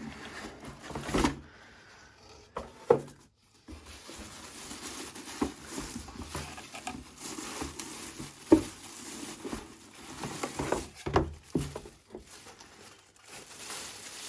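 Scattered light knocks and taps, as of things being handled and set down in a small room, at irregular intervals with the sharpest ones about three seconds in and again after eight seconds.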